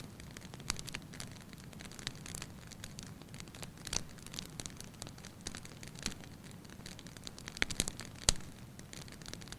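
Fire in a fireplace crackling: irregular sharp pops and snaps over a low steady flame rush, with a few louder pops near the end.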